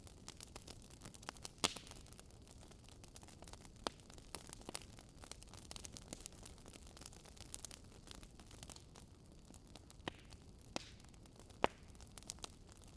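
Campfire crackling: irregular sharp pops and snaps of burning wood over a soft, steady hiss of the flames. Two pops stand out as the loudest, one near the start and one near the end.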